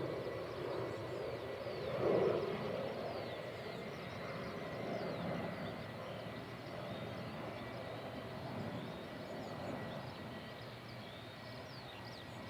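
Jet airliner engine noise slowly fading away, with a brief swell about two seconds in, while small birds chirp over it.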